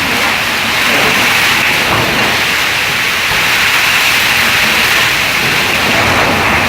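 Heavy rain pouring down in a violent storm, a loud steady rushing hiss with no distinct impacts.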